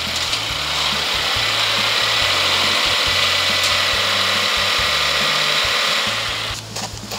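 Subaru Forester 2.0XT's turbocharged flat-four engine running steadily with a strong hiss, which cuts out about six and a half seconds in as the engine is switched off after the car is parked on the ramps.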